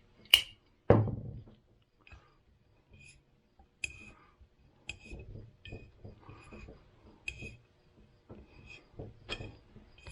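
Hand tap cutting a thread into a boss of a lawn tractor deck's blade shaft bearing housing. Two sharp metallic clicks in the first second, the second ringing briefly, then short squeaky clicks about once a second over light handling noise as the tap is turned.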